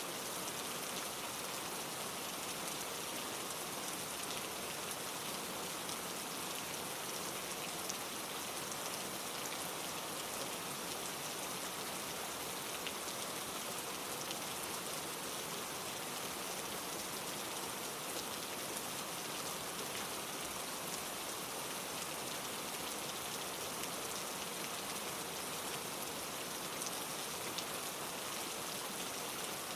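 Steady rain falling on leaves, a constant patter of many small drops without a break.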